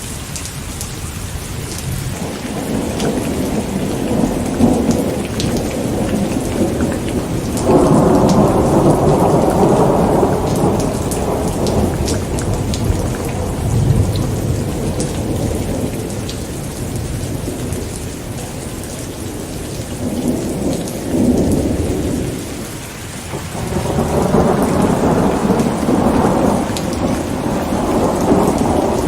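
Steady rain with rolling thunder. A loud rumble breaks in about eight seconds in and dies away, and another builds near the end.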